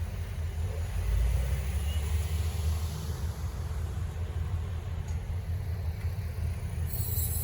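EMD SW1500 switcher locomotives' diesel engines rumbling low and steady, a little louder for a couple of seconds early on. A hiss comes in near the end.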